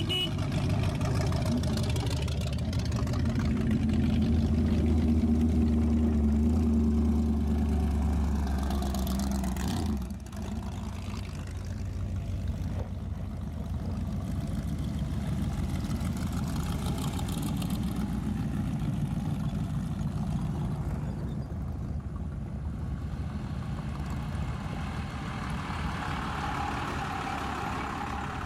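Rat rod engines running with a steady low rumble. The loud rumble drops away suddenly about ten seconds in, leaving quieter engine noise.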